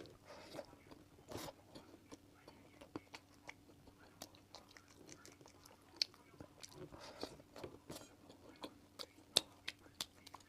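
Close-miked chewing and biting of a five-kernel mooncake: wet mouth clicks and small crunches from the nutty filling, with two sharper clicks about six and nine seconds in.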